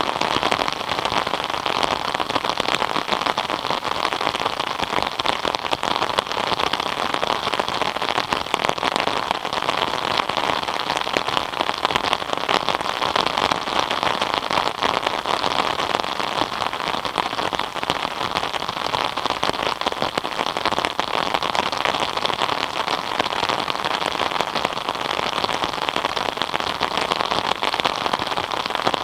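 Steady rain falling and pattering on a surface, a dense, even patter of many drops with no let-up.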